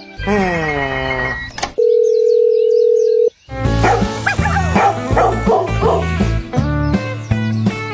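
Cartoon-style sound effects, then music: a falling glide lasting about a second, a sharp click, a steady beep for about a second and a half that cuts off suddenly, then bouncy music with a bass line from about halfway in.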